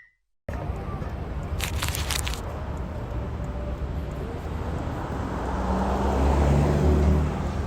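Road traffic noise with a car engine running, cutting in abruptly, with a few sharp clicks about two seconds in. A low engine tone rises and grows louder toward the end, as a car speeds up or passes.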